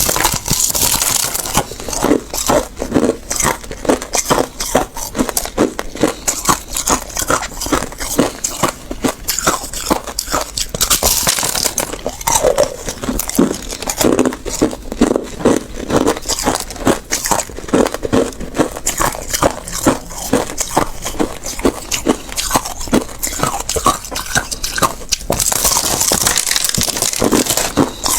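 Close-up crunching of ice being bitten and chewed: dense, rapid cracks and crunches throughout. A few brief stretches of higher hiss come near the start, about eleven seconds in, and near the end.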